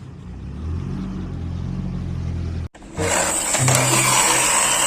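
A low, steady car engine drone that cuts off abruptly a little under three seconds in. Loud music starts right after it.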